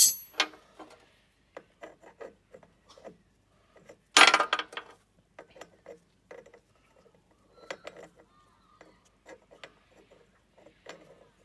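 Metal hand tools and engine parts being handled on a workbench: scattered light clicks and knocks, with one louder metallic clatter about four seconds in.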